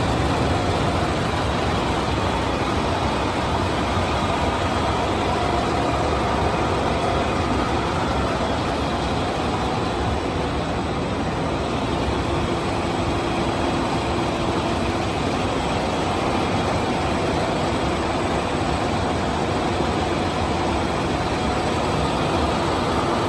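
Machinery of a braided-hose production line running with a steady, even mechanical noise.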